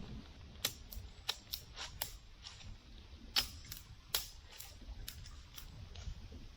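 Twigs and brush snapping and being cut: an irregular run of sharp snaps and clicks, the loudest two about three and a half and four seconds in.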